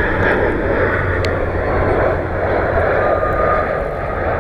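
Airliner engines on final approach passing close overhead, a loud steady noise with a thin whine that comes in about three seconds in.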